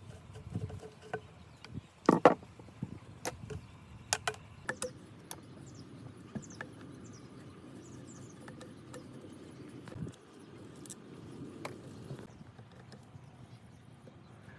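Irregular clicks and knocks of hand tools and small metal parts being handled, the loudest knocks about two seconds in, followed by a steady rubbing noise from about five seconds until near the end.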